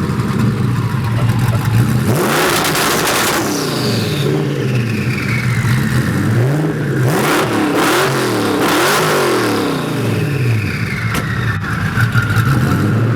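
Twin-turbo Ford GT V8 idling, then blipped hard: one rev about two seconds in and a quick run of about three revs in the middle, each rising and falling before it settles back to idle. After the revs a high whine falls slowly away as the turbos spool down.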